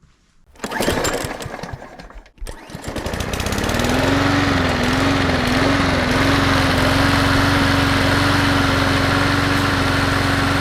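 Cub Cadet riding mower's 679cc fuel-injected engine being started: it is turned over for about two seconds, with a short break, then catches about three seconds in. Its speed wavers briefly, then settles into a steady run. The engine now starts and keeps running after its fuel-injection starting fault was repaired.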